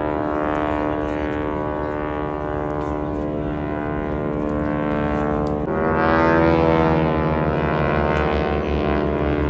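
Propeller engines of the wing-walking display biplanes droning overhead. About six seconds in, the engine note suddenly steps up in pitch and grows louder.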